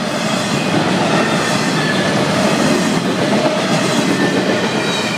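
Florida East Coast Railway freight cars rolling past at close range: a steady loud rumble and rattle of steel wheels on the rails, with faint steady high tones over it.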